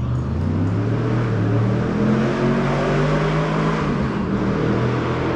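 Race car engine running hard under acceleration on a hillclimb course, its pitch rising and falling as it pulls up the hill.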